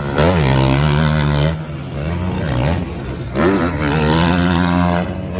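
450-class motocross bikes running hard on the track. It comes in two spells, about the first second and a half and again from about the middle to near the end. Each spell starts with the engine note dipping and climbing, then holds high under full throttle.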